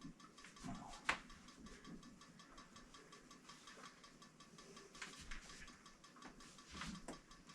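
Faint, even ticking, with one sharp click about a second in and a few soft knocks later.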